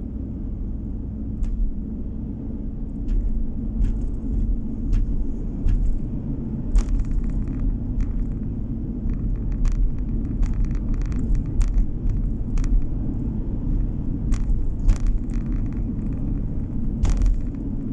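Car driving along a road: a steady low rumble of road and engine noise, with scattered sharp clicks and knocks.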